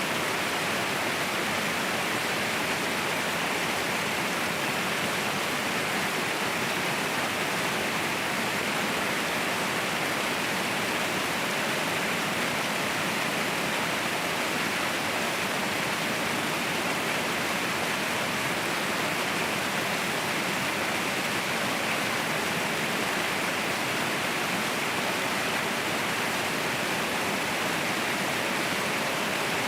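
Waterfall rushing: a steady, dense roar of falling water with no breaks or changes.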